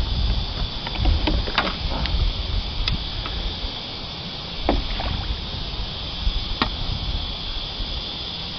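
Scattered knocks and clicks of fishing gear and hands against a plastic kayak over a low rumble, while a fish is being landed. A steady high insect drone runs underneath, typical of cicadas in the creekside trees.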